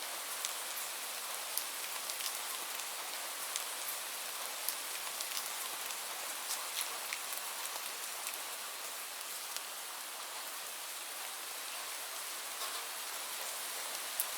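Steady rainfall, an even hiss with scattered individual drops ticking sharply on a surface.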